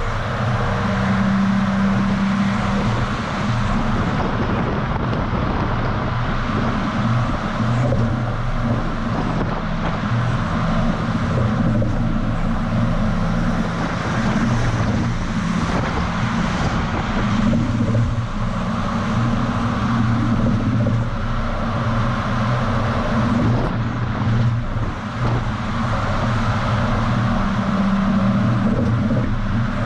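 DAF XF semi-truck driving, heard from a camera mounted on the outside of the cab: a steady diesel engine hum under tyre and wind noise.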